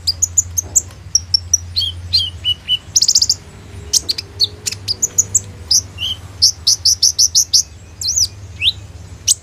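Kolibri ninja sunbird singing in a rapid, varied stream of high-pitched chirps, short fast trills and sweeping notes, its song full of mimicked phrases of other birds.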